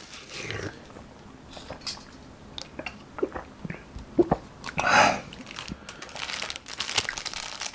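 Close-miked mouth sounds of a person chewing food, with small wet clicks and a short breath about five seconds in. Near the end, the plastic wrapping of a convenience-store sandwich crinkles as it is picked up and handled.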